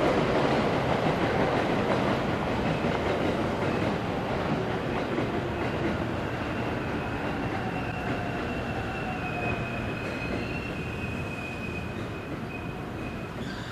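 Electric train running on the rails, loud at first and gradually fading as it moves away. A thin, high wheel squeal comes in about halfway through.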